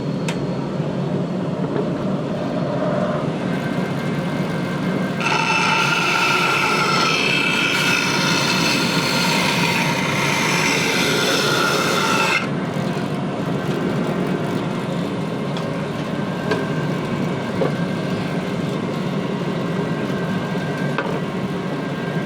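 Bandsaw running steadily. From about five seconds in to about twelve seconds, the blade cuts through a hickory board, adding a louder, higher hiss with a whine in it.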